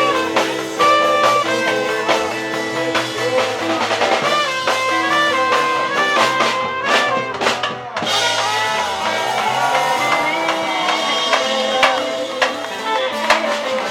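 Band music with a drum kit keeping a steady beat under sustained melody instruments.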